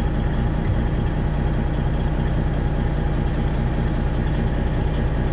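Straight-piped Detroit Diesel 12.7 engine of a Freightliner Classic XL semi truck idling steadily.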